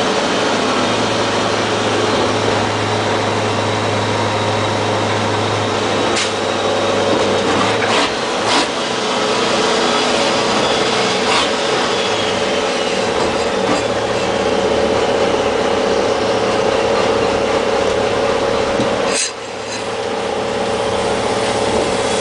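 MAN race truck's diesel engine and cab noise, heard from the passenger seat inside the cab: a loud, rough, steady din with a low hum for the first several seconds, a few sharp knocks or rattles, and a brief drop in level near the end.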